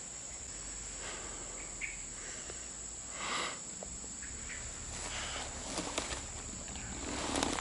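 Insects calling with a steady high-pitched trill, with a few bursts of rustling and sharp clicks on top, the loudest rustle near the end.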